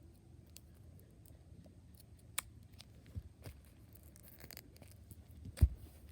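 Handling noises of a package being opened: scattered small clicks and a brief rustle, with one louder thump near the end.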